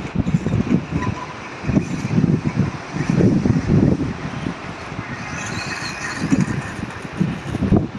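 Reely radio-controlled dirt bike's small electric motor whining, rising and falling in pitch about five to six seconds in, under heavy wind buffeting on the microphone.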